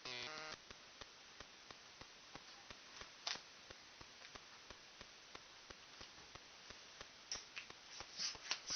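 Faint, steady ticking, about three ticks a second, after a brief pitched sound at the very start. A few short noisy rustles come through near the end.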